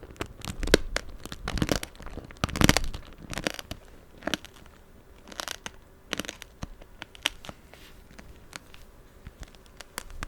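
Close-miked chewing of tanghulu, the hard sugar glaze on the fruit crackling and crunching between the teeth. The crunches come thick in the first few seconds, then thin out to scattered small clicks.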